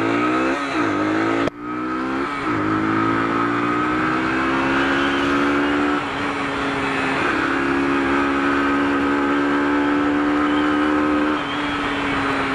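Sinnis RS125 motorcycle's 125cc engine accelerating through the gears, its pitch climbing and falling back at each upshift in the first few seconds, then holding steady at cruising speed and easing off slightly near the end, with wind rushing over the helmet microphone.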